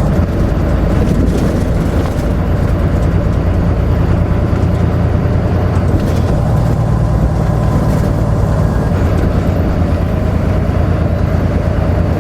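Semi truck's diesel engine running steadily while driving, with a continuous low drone and road noise.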